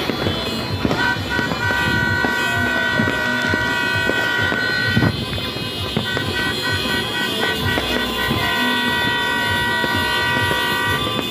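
Horns blown in long, steady blasts, dropping out about five seconds in and starting again a second later, over a dense crackle of firecrackers.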